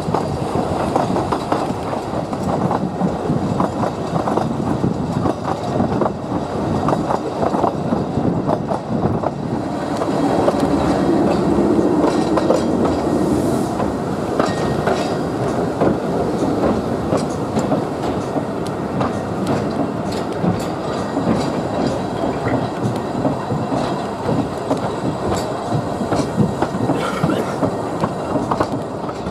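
Narrow-gauge steam railway train running along the line, with a steady rumble and many short clicks of wheels over the rail joints, a little louder about ten seconds in.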